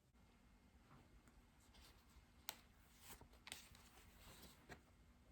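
Near silence: faint room tone with a few soft, short clicks and rustles, the loudest about two and a half seconds in.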